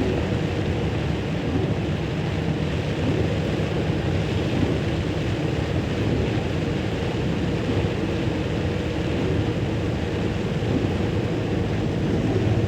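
A vehicle running steadily on a wet road in the rain: a constant engine hum under a steady rush of tyre, rain and wind noise.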